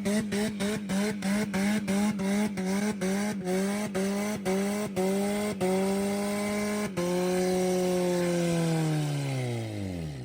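Car engine being redlined against the rev limiter: a stuttering high note cut off again and again, the cuts coming more slowly over time. Then it holds one note that sinks in pitch until it stops, as the engine dies from the abuse.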